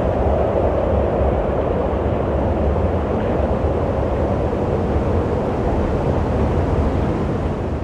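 Wind blowing steadily: an even rushing with a deep rumble underneath.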